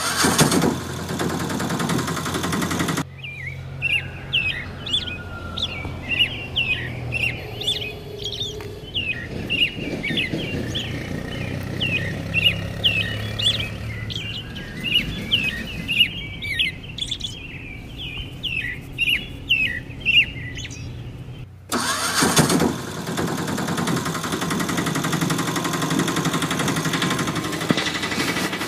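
Small birds chirping in long runs of short, quick calls that drop in pitch. A loud rushing noise covers the first few seconds and comes back for the last quarter.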